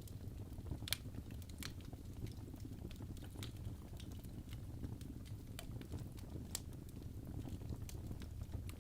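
Wood fire burning in a fireplace: a steady low rumble of the flames with sharp crackles and pops every second or so, the loudest about a second in.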